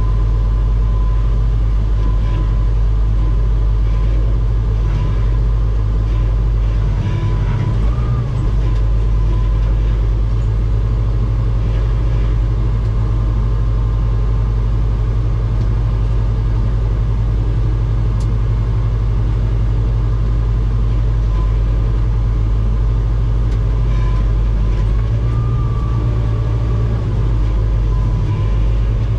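Heavy-equipment diesel engine running steadily, loud and close, with a faint thin whine above it that wavers briefly twice.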